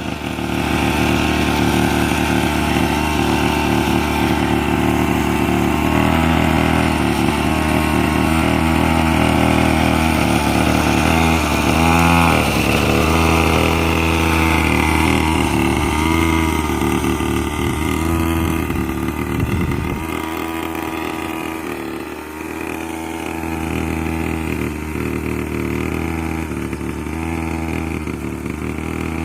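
Brand-new 49cc mini quad bike engine running at low revs while being run in, its pitch wavering a little as the throttle is eased on and off, and dropping slightly in level about two-thirds of the way through.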